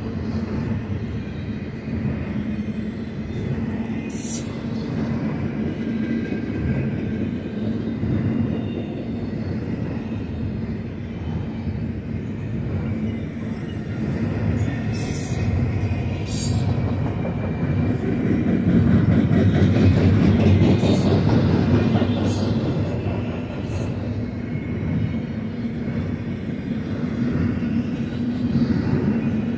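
Double-stack intermodal well cars of a BNSF freight train rolling past: a continuous rumble of steel wheels on rail with a steady low hum and a few brief high ticks, swelling louder about two-thirds of the way through.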